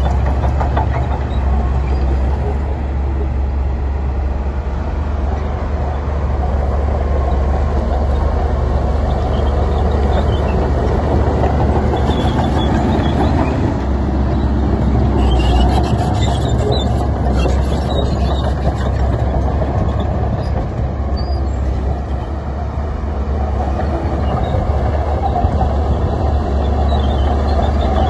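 Heavy diesel earthmoving machinery running steadily under load, a deep engine rumble with scattered rattles and clanks of metal and stone around the middle.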